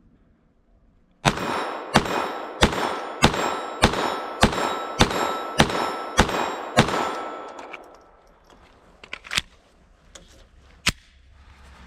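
Glock 44 .22 LR pistol fired in a steady string of about ten shots, roughly two a second, each crack followed by a ring, with CCI Mini-Mag ammunition. Two fainter sharp cracks follow a few seconds later.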